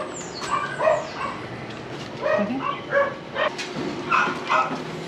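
Dogs barking and yipping in quick, short barks, about two a second, with gaps between runs.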